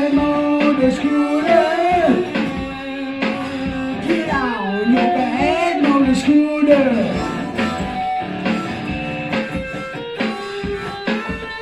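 Live blues-rock music: an electric guitar solo with bending, gliding notes over a steady beat.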